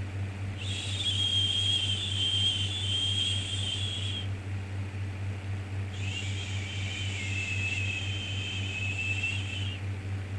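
Two long 'shhh' shushing sounds, each about three and a half seconds, with a short pause between them, over a steady low hum: a repeating shush played to soothe a baby.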